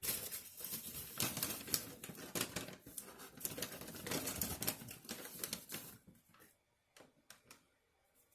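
Close-miked eating: rapid crackling crunches for about six seconds, then a few scattered clicks.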